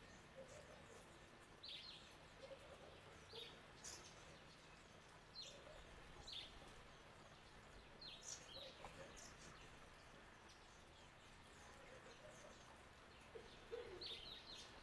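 Faint garden birds calling: short high chirps that sweep downward, one every second or two, with softer low warbling notes between them and a cluster of calls near the end. Under them is a steady low hiss from the bird bath fountain's flowing water.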